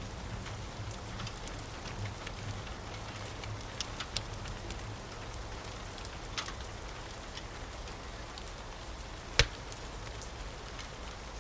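Steady rain hiss with a wood fire crackling in a fireplace: scattered sharp pops, one much louder crack about nine seconds in. A low rumble fades out over the first few seconds.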